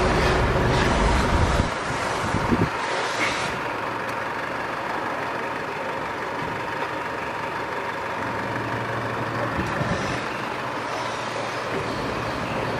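Motor vehicle noise: a deep engine rumble that drops away about two seconds in, a couple of short knocks, then a steady hiss of traffic.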